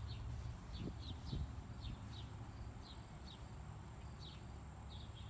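Faint outdoor ambience: a bird giving short, slightly falling chirps about twice a second over a low steady background rumble.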